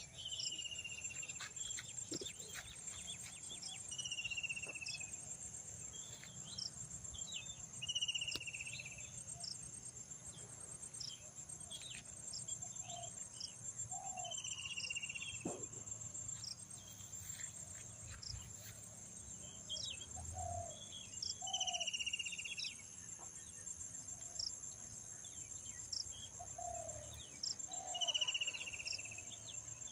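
Jungle ambience: a steady, high-pitched chorus of insects, with a bird repeating a short falling call every few seconds and lower two-note calls now and then.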